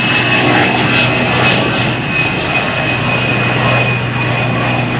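Military aircraft engines running steadily, a steady high whine over a low hum and rushing noise.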